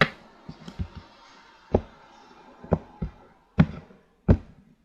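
Tarot cards being handled and set down on a table: a run of irregular taps and dull knocks, about nine in all, the two loudest near the end.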